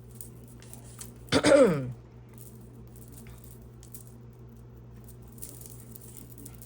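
Faint clicks and rattles of beaded costume jewelry being handled, with one loud, brief squeak that falls in pitch about a second and a half in.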